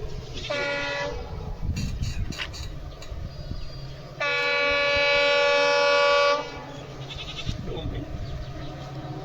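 Locomotive horn of a train running through a station without stopping: a short blast about half a second in, then a long steady blast of about two seconds starting about four seconds in, over the low rumble of the train.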